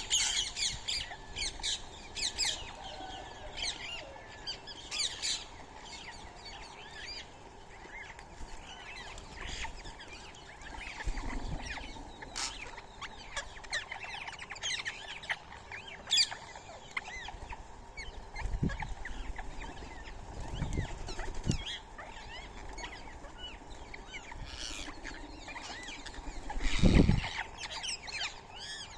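Birds chirping and calling again and again at a feeding spot, with several overlapping short, high calls. A few soft low thumps are mixed in, the loudest near the end.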